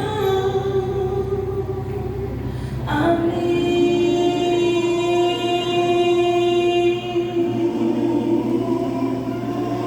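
Gospel song with sung voices holding long sustained notes; a new long held note begins about three seconds in.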